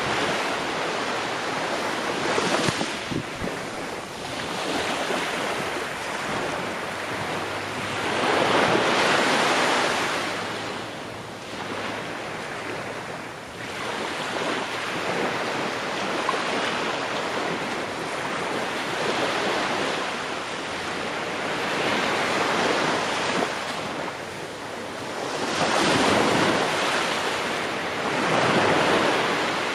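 Ocean waves breaking and washing onto the shore, a continuous surf rush that swells and falls every few seconds, loudest around the ninth and twenty-sixth seconds.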